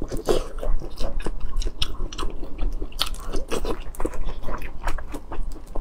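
A person chewing food with the mouth close to a clip-on microphone: a steady run of wet smacks and small clicks, several a second.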